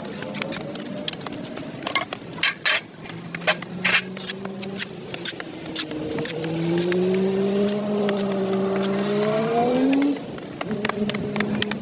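Repeated sharp scrapes and clicks of a hand tool working the pavement, over a motor vehicle's engine running. The engine's pitch rises near the end before it drops away.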